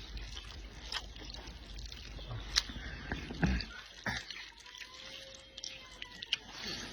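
Chopsticks stirring and lifting noodles in an oily, spicy broth, with wet sloshing and a few light clicks against the bowl about once a second.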